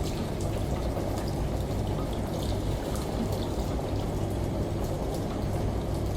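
Steady low machine hum with running water, washing machine and rain layered together, with scattered drops ticking on top.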